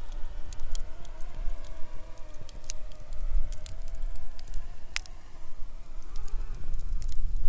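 Wood campfire crackling with irregular sharp pops, one louder pop about five seconds in.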